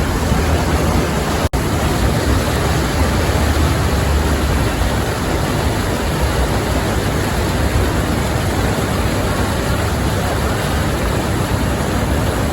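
Steady rush of wind buffeting the microphone over vehicle road noise, heard riding in the open back of a pickup truck. The sound cuts out for an instant about a second and a half in.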